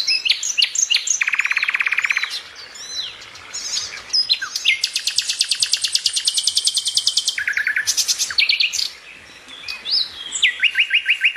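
Birds chirping and singing, with short sweeping chirps broken by several long, rapid trills at different pitches.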